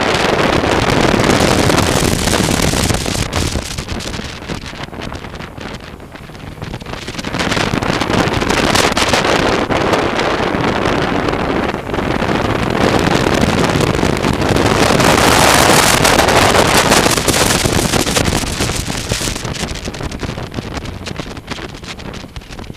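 Wind rushing over the microphone of a moving motorcycle, loud and noisy without a clear engine note, swelling and easing several times and dying down near the end.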